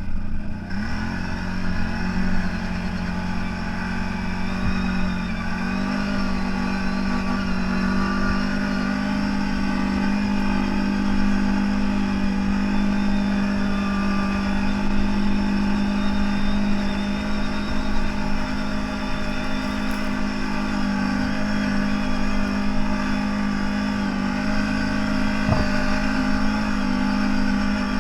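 CFMoto 1000's V-twin engine running steadily under way, an even drone that rises slightly in pitch just after the start and again about six seconds in.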